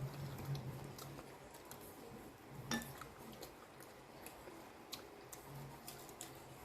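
Faint eating sounds at a table: scattered small clicks of cutlery and dishes, with one sharper ringing clink about three seconds in. A low hum sounds in the first second.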